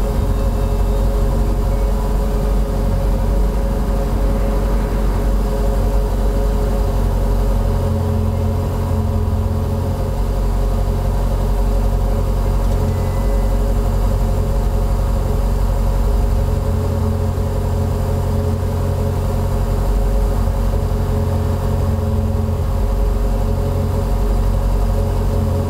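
Ferrari 488 GTB's twin-turbo 3.9-litre V8, fitted with an aftermarket exhaust, idling steadily.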